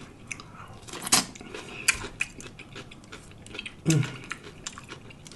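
Close-miked chewing of a lettuce-wrapped sub sandwich: irregular wet clicks and crunches of lettuce, with a short hum of the voice about four seconds in.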